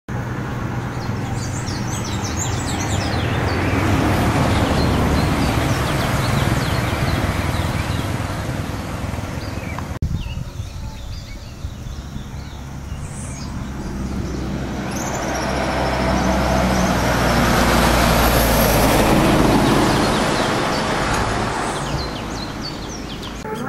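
Motor traffic: vehicle engines and road noise swell and fade twice, as vehicles pass, with birds chirping faintly in the early part. The sound changes abruptly about ten seconds in.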